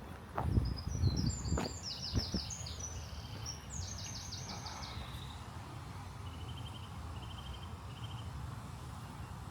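Small songbird singing high, quick phrases made of rapid trilled notes, followed later by three short buzzy trills. A few low thumps come in the first couple of seconds over a steady low outdoor rumble.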